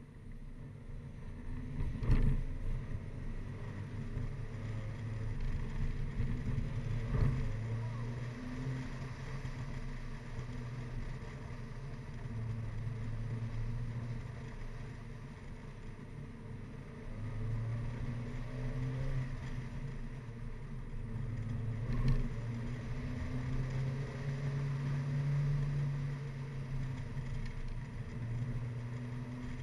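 MINI Cooper Clubman (R55) engines pulling hard on a twisty climb, the engine pitch rising and falling again and again through the revs, over road and wind noise. A few sharp thumps stand out, the loudest a couple of seconds in.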